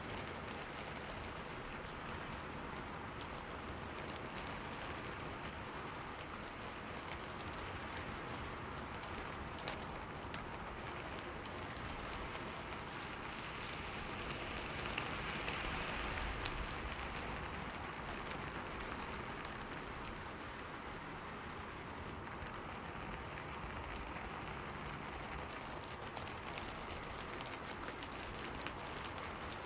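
Steady rain falling on forest leaves, a dense patter with individual drops ticking through it, swelling slightly about halfway through.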